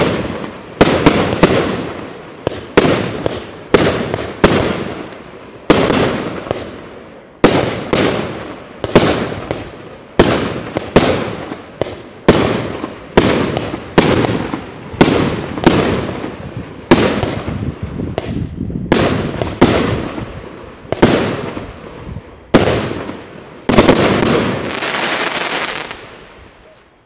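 A 35-shot fireworks cake (RAGE) firing shot after shot: a steady run of sharp aerial bursts, about three every two seconds, each trailing off. Near the end the bursts give way to a longer stretch of crackling that fades out as the cake finishes.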